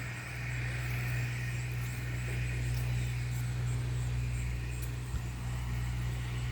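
Steady low engine drone with no change in pitch, and a couple of faint clicks about five seconds in.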